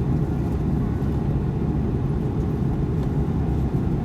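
Steady low rumble of cabin noise inside an Airbus A330-200 airliner in flight: engine and airflow noise heard from a window seat, even in level throughout.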